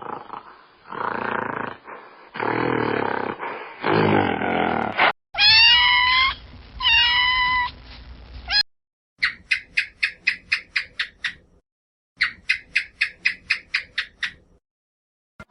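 A run of different animal calls, one after another: rough, noisy cries for the first few seconds, then two calls that slide steeply down in pitch, then two bursts of quick chirps at about four a second.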